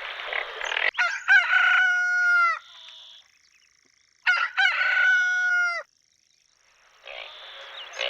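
Rooster crowing twice, two long cock-a-doodle-doo calls a couple of seconds apart. A rough pulsing noise, about one pulse a second, runs before the first crow and returns near the end.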